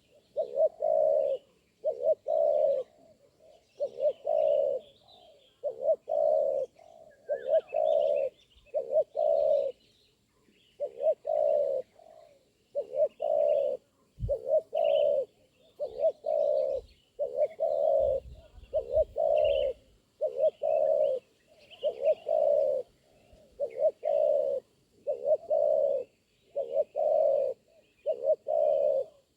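Spotted dove (tekukur) cooing over and over, its low notes coming in groups of two or three with a short break near the middle. Small birds chirp faintly in the background, and a single low thump comes about halfway through.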